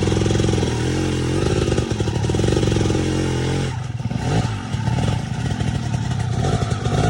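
Dirt bike engine running hard under throttle, then dropping off a little under four seconds in and running unevenly at lower, varying revs.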